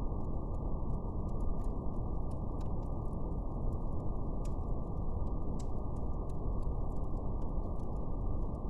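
Steady brown noise, a deep, even hiss, with faint, irregular crackles of a fire ticking through it a few times a second.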